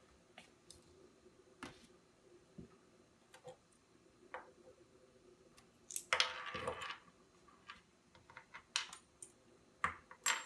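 Light metallic clicks and clinks of small alloy RC wheel parts and hardware being handled, with a brief rustle about six seconds in.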